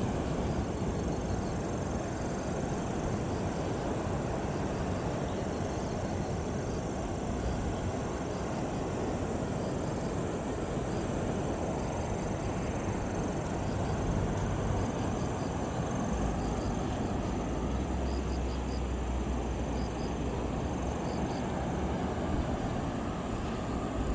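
Sea waves and wind: a steady, even rush with a deep rumble that swells a little past the middle, and faint high chirps here and there.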